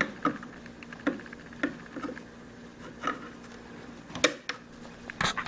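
Irregular clicks and taps of hands handling a Parrot Sky Controller while switching it on, over a faint steady hum.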